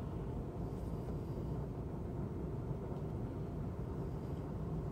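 Steady low rumble of a Norfolk Southern mixed freight train's locomotives approaching from a distance.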